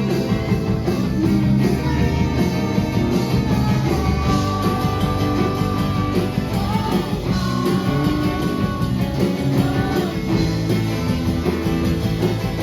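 Live band playing a song, with electric guitars over bass and drums and held melody lines.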